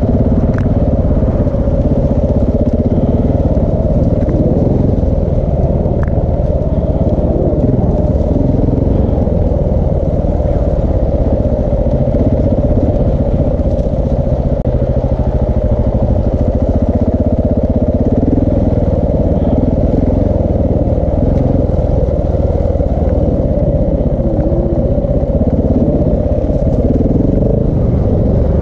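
KTM 690 Enduro R's single-cylinder four-stroke engine, fitted with a Wings exhaust and large dB killer, running continuously as the bike is ridden along a singletrack trail.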